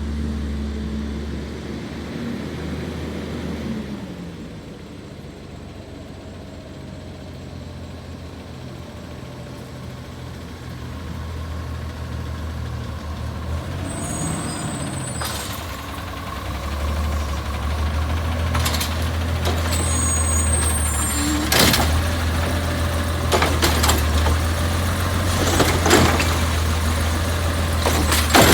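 Recycling truck's engine running, quieter for a while and then building up louder, with short high squeals of the air brakes and a series of sharp clanks and bangs in the second half.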